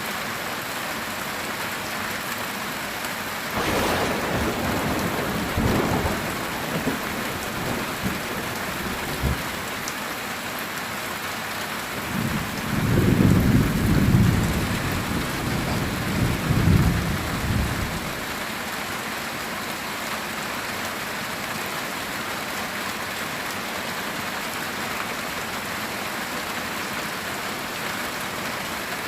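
Steady heavy rain drumming on a metal tin roof, with thunder twice: a sudden crack about three and a half seconds in that rumbles on for a few seconds, then a longer, louder low rumble near the middle.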